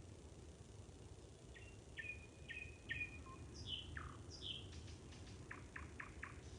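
A songbird singing one varied phrase: four short notes with a held whistle between them, then two quick falling notes, then a fast run of dry clicks near the end. Faint and over a steady low hiss.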